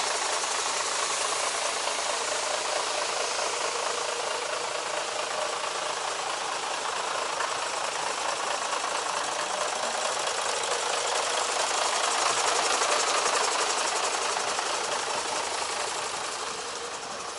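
Mercedes-Benz SK 3234 truck's V6 diesel engine running steadily, swelling a little louder about twelve seconds in, then easing off near the end.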